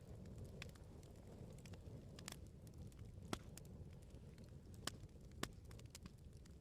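Wood bonfire burning with a low, steady rumble of flames and scattered sharp crackles and pops from the firewood, the loudest pop about three seconds in and two more near the end.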